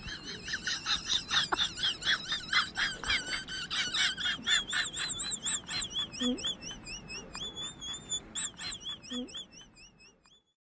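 A bird chirping rapidly, several high arched notes a second, in a long run that fades out near the end.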